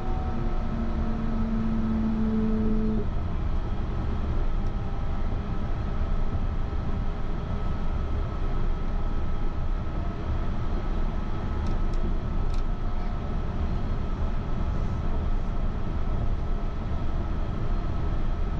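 Yurikamome rubber-tyred automated train running along its concrete guideway, heard from inside the car: a steady low rumble with a constant high tone. An electric motor hum in two pitches fades out about three seconds in.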